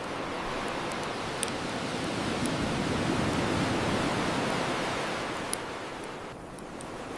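An ocean wave washing up the shore, swelling to its loudest midway and then drawing back, with two sharp pops from a crackling bonfire.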